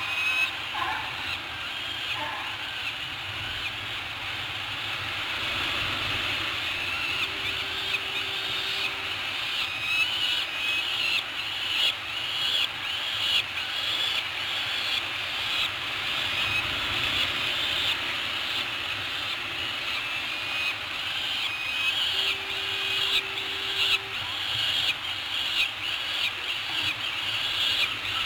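Steady outdoor hiss with many short, high bird chirps running through it. A low steady tone sounds twice, each about two seconds long, some fifteen seconds apart.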